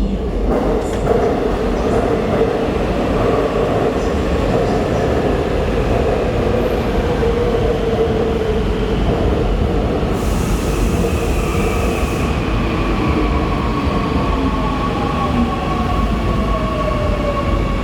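Seoul Subway Line 2 train running into the station and slowing: a steady rumble of wheels on rail, with whining tones that fall in pitch through the second half as it slows. A brief hiss comes about ten seconds in.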